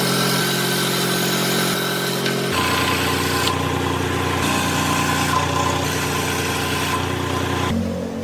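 An electric woodworking power tool's motor runs steadily. Its pitch drops about two and a half seconds in, and the sound changes again near the end.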